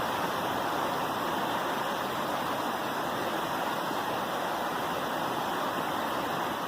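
Rushing water, a steady, even noise.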